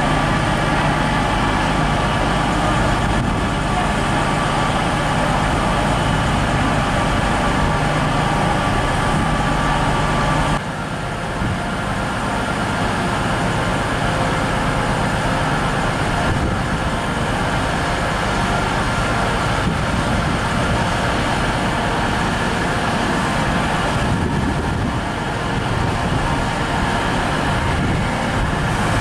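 Train running at a station platform: a steady engine hum with held tones that drops suddenly about ten and a half seconds in, then continues as a noisier rumble.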